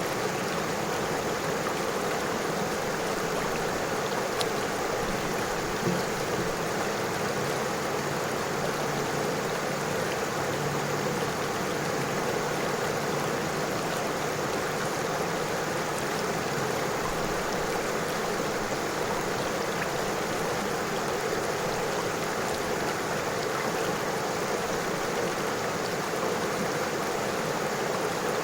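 A river flowing over stones, a steady, even rushing of water.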